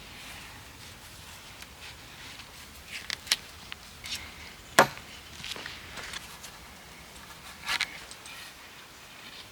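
Scattered wooden knocks and taps of hand work with wood, irregular and a few seconds apart, the loudest a single sharp knock about halfway through.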